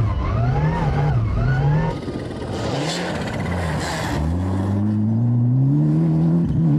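Turbocharged four-cylinder Group A rally car engine driven hard on a stage. For the first two seconds the revs rise and fall quickly several times, as if braking and downshifting through a corner. After a rougher, lower stretch, the revs climb steadily about four seconds in and then hold high under full acceleration.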